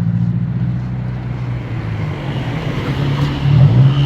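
Motor vehicle engine running with a steady low drone; its pitch shifts briefly about three and a half seconds in.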